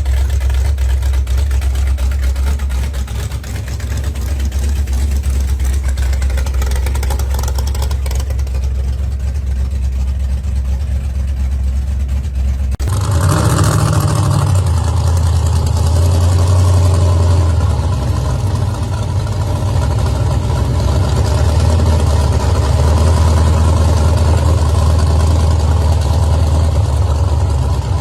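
Hot-rod gasser car engines running with a low, steady rumble; about halfway through, the sound cuts abruptly to a different, somewhat louder engine that swells up and eases back twice.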